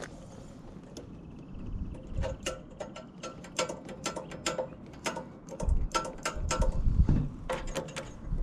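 Irregular metallic clicks and rattles, several a second, each with a short ringing tone; they come thickest in the middle and again near the end.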